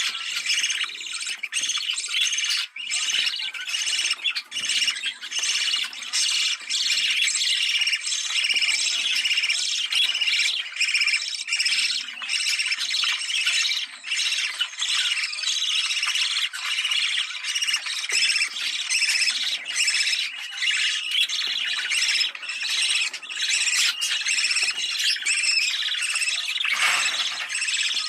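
Budgerigars chattering, warbling and squawking without a break, many overlapping calls at once.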